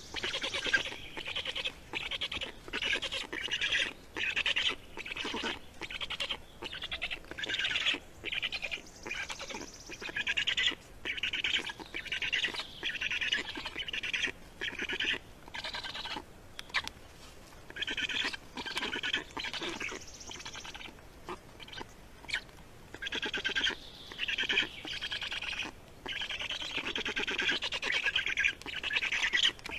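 Small bird calling over and over in short calls, each under a second, with brief gaps between them.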